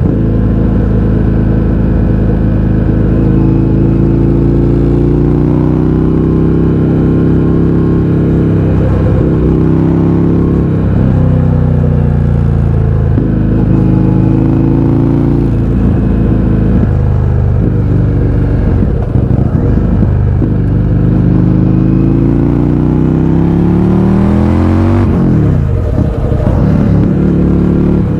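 Indian FTR 1200's V-twin engine through an Akrapovič exhaust with its baffles removed, ridden on the road. The engine note repeatedly climbs under acceleration and drops back at each gear change or roll-off.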